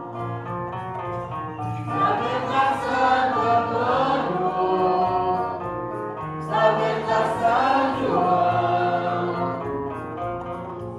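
A group of voices singing a Santo Daime hymn in Portuguese, in long held phrases with a short break about two seconds in and another near the middle.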